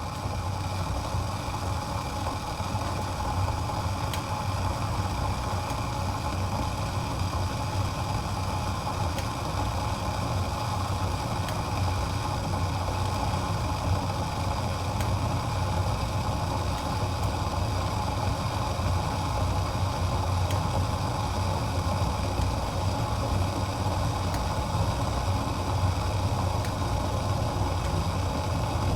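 Water boiling in a pot: steady, continuous bubbling with a low rumble underneath.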